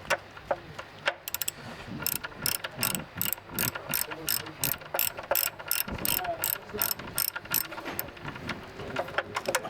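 Hand ratchet wrench being worked on a bolt or fitting on a Bristol Olympus turbojet. It gives a steady run of sharp pawl clicks, about four a second, through the middle, with a few knocks of tools before and after.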